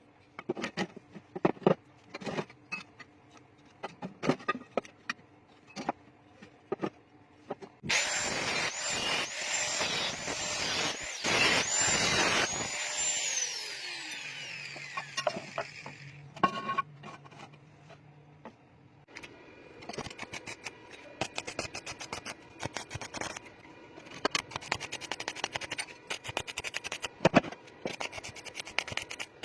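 Metal fabrication work: scattered knocks, then a power tool runs loudly for about five seconds and winds down with a falling whine. Near the end comes a long stretch of rapid, dense clicking and scraping.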